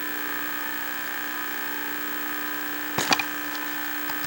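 Steady electrical buzz from the 1963 Philco Courier TV's speaker, made of several fixed tones, with a couple of sharp clicks about three seconds in.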